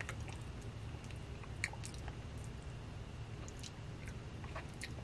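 Faint mouth sounds of a man chewing on a strand of silk dental floss: scattered soft clicks over a low steady hum.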